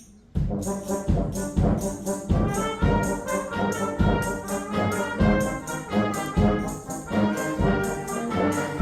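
Band music: after a faint tambourine, the full band comes in loudly about a third of a second in, with horns playing over a steady beat.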